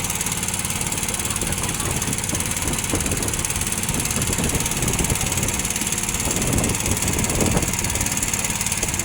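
A boat's engine running steadily, with a steady high hiss over it.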